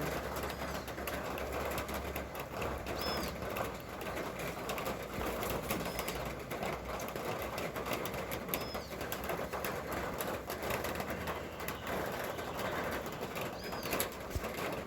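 Steady rain falling, with a patter of drops and drips. A bird gives short, high chirps about five times, spaced a few seconds apart.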